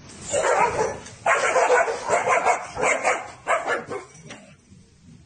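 A dog barking, a quick run of loud barks over about four seconds that then dies away.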